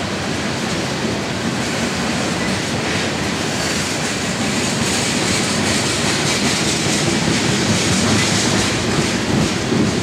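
Freight train's tank cars rolling past, their steel wheels rumbling and clattering steadily on the rails, growing a little louder and harsher in the upper range from about halfway.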